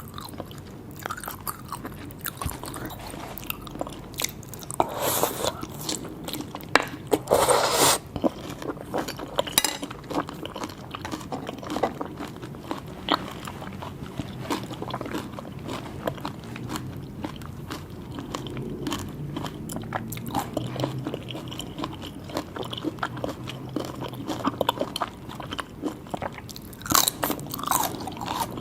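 Close-miked eating of seafood: steady biting, chewing and wet mouth sounds, with louder crunching bites about five seconds in, around seven to eight seconds, and again near the end.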